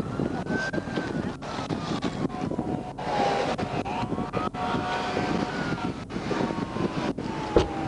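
Emergency-vehicle siren in a slow wail, rising and falling twice, over steady wind and rumble on the microphone. A sharp knock comes near the end.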